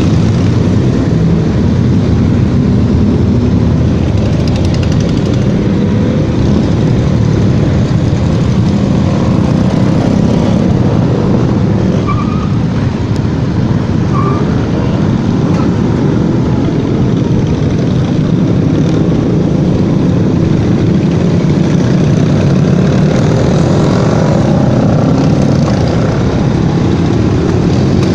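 Motorcycles running at a steady pace, a loud continuous engine rumble without changes in revs.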